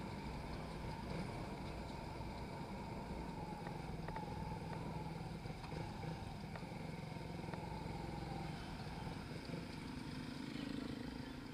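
Suzuki Raider 150 Fi motorcycle's single-cylinder engine running steadily while being ridden at low speed, with road noise.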